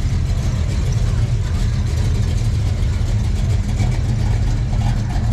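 Chevrolet Chevelle SS convertible's V8 engine running at a slow roll as the car drives past, a steady low exhaust note.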